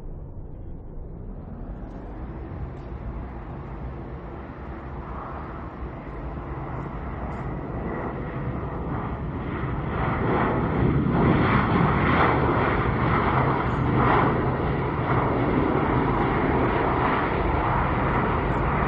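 Jet engine noise from a Boeing 737-8 MAX's CFM LEAP-1B turbofans. It is steady with a few faint tones, grows louder over the first ten seconds or so as the airliner comes closer, then stays loud.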